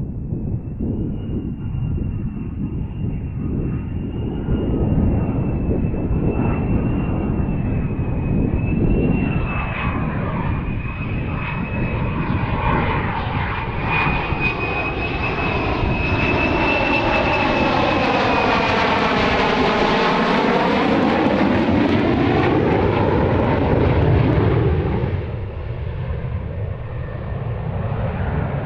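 F-35B Lightning's F135 jet engine running at high power: a steady high whine over a heavy rumble. Around the middle the tone sweeps down and back up as the jet moves relative to the listener, and the sound eases off near the end.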